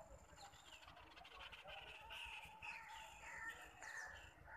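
Faint birds calling: a run of short, downward-sliding chirps repeating over and over.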